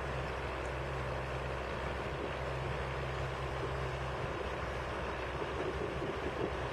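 A heavy engine running steadily, with a low hum under a broad rushing noise; part of the hum drops away about four seconds in.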